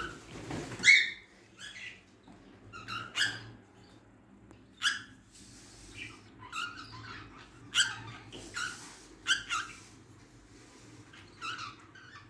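Caged budgerigars giving short, sharp chirps, a dozen or so at irregular intervals, over a faint steady low hum.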